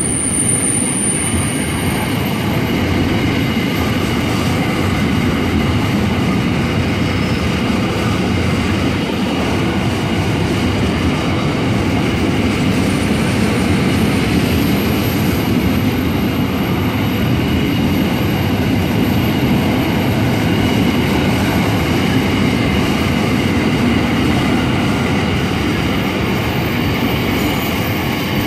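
A long freight train rolls steadily past at speed: continuous wheel-on-rail rumble and clatter from the wagons, with a faint steady high squeal from the wheels.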